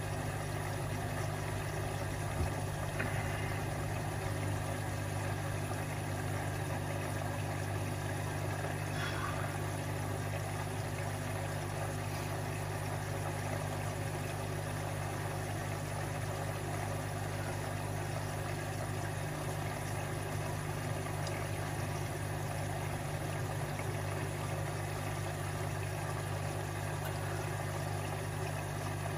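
Washing machine running with a steady low hum and a small knock about two and a half seconds in.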